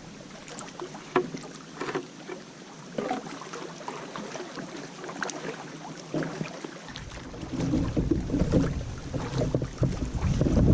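Canoe paddling: water splashing and dripping with scattered light knocks of paddle and gear on the hull. From about seven seconds in, wind buffets the microphone with a low rumble.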